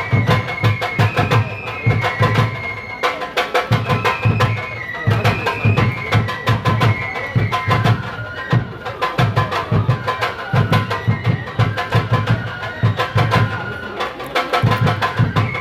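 Shinto kagura music: drums beating in a rapid, continuous rhythm under a high, held melody line that steps up and down.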